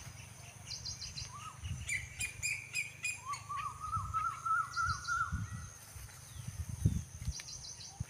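Small birds calling: a run of about a dozen quick chirps, each sliding upward, the run slowly climbing in pitch, with short high trills before and after it. Irregular low thumps and rumble lie beneath.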